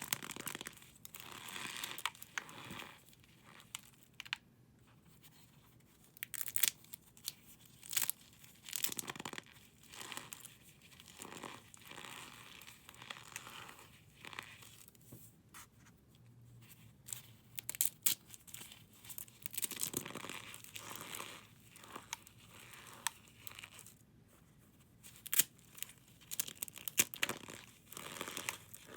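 Brittle material being crushed and crumbled by hand, giving irregular crunching and crackling in short bursts with pauses between them.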